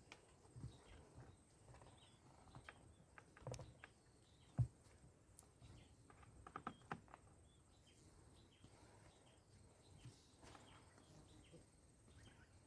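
Near silence: faint outdoor background with scattered small clicks and knocks. The sharpest knock comes about four and a half seconds in, and a few more come close together a couple of seconds later.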